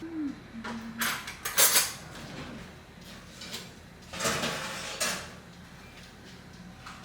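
Kitchen clatter of pans and utensils being handled during breakfast cooking, in a few short bursts, the loudest about a second and a half in and another about four seconds in.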